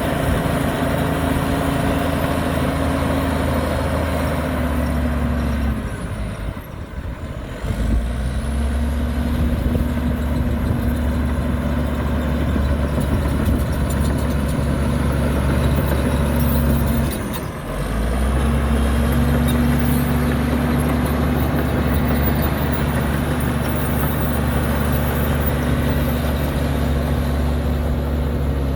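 Heavy diesel engine of earthmoving machinery, a dump truck or bulldozer, running steadily under load, with two brief drops in sound partway through.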